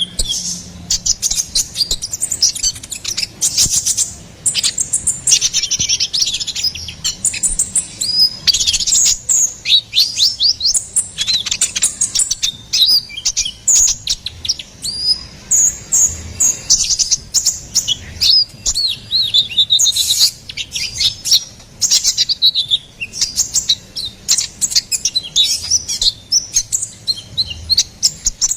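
A sunbird ('konin kolibri ninja') singing energetically in a long, unbroken run. It gives rapid high chirps, fast trills and short falling whistles, with hardly a pause.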